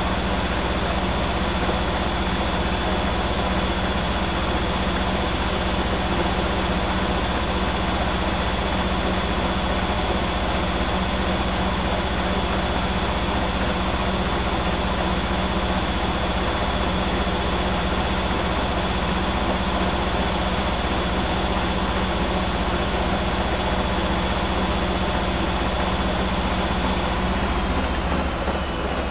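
Arçelik 5900E (Bauknecht-built) front-loading washing machine in its spin cycle after the second rinse: a steady high motor whine over the rush of the spinning drum. Near the end the whine starts to fall in pitch as the spin begins to slow down.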